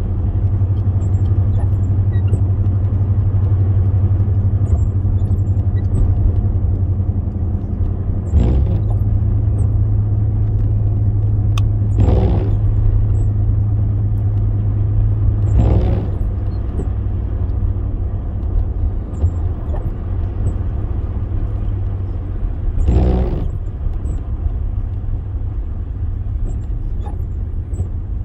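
Steady low rumble of a car driving, heard from inside the cabin, with four short thumps spread irregularly through it.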